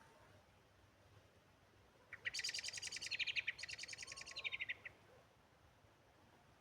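A songbird singing one fast, trilling phrase of rapidly repeated high notes, starting about two seconds in and lasting nearly three seconds, with faint short whistles in the background.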